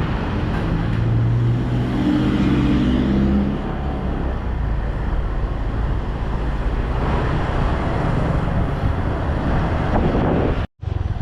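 Motor scooter engine running on the move, with dense road and wind noise; a clear engine hum with a steady pitch stands out between about one and three and a half seconds in. The sound cuts out for an instant near the end.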